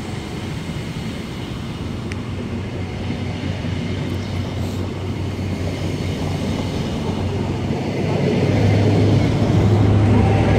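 Diesel train at the platform with a steady low engine hum and rail rumble, growing louder over the last couple of seconds as it draws nearer.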